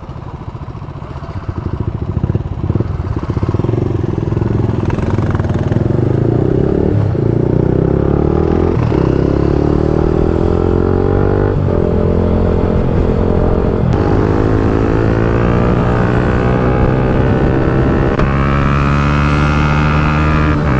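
Motorcycle with an aftermarket exhaust accelerating up through the gears. The engine note climbs in pitch, drops briefly at each shift about 7, 9, 11½ and 14 seconds in, then climbs again. It starts quieter and grows louder over the first few seconds.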